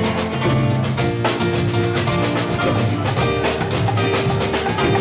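Live dance band playing, with drum kit and percussion keeping a steady beat under sustained instrumental notes.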